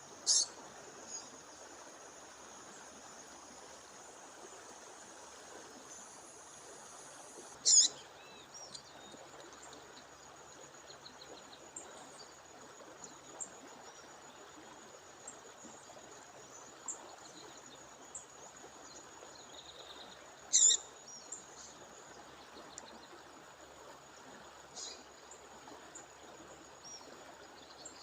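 A female songbird giving short, sharp, high-pitched calls a few times, the loudest about eight seconds in and again near twenty-one seconds, over the steady rush of a waterfall, with a thin steady high tone running under them.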